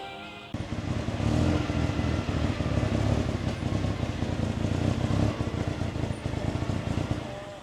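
Engine running with a loud, rough low rumble that cuts in about half a second in and fades near the end.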